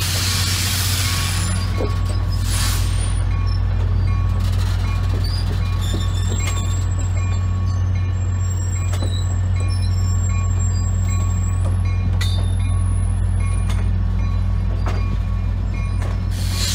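Passenger train cars rolling slowly past, their wheels clicking over the rail joints now and then, over a steady low engine drone.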